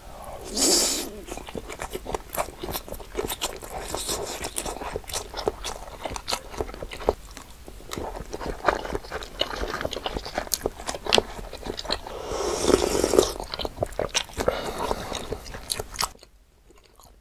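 Close-miked biting and chewing of a curly fish cake (eomuk) skewer, with many small wet mouth clicks. A louder bite about a second in and another louder burst around twelve seconds in stand out.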